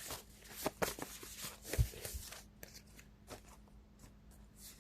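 Tarot cards being shuffled by hand: a string of quick soft card flicks and slaps, with a low thump a little under two seconds in.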